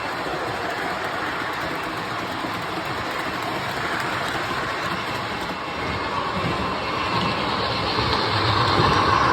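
MTH O-gauge model of a CSX AC6000 diesel locomotive running on the layout track, a steady rolling rumble of wheels and motor that grows louder near the end.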